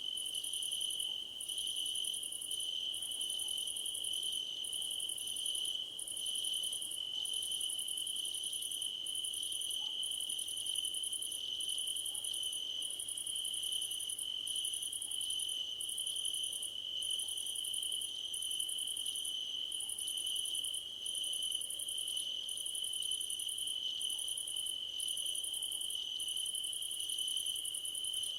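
A chorus of crickets in grass: one high, unbroken trill, with a second, higher song over it that runs in phrases broken by a short gap about once a second.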